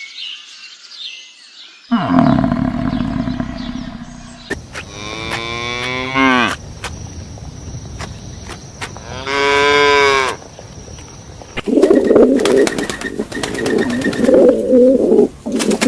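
Cattle mooing: two long drawn-out moos, the second louder, after a lower call at about two seconds in. From about twelve seconds in, a busy fluttering run of pigeon cooing takes over.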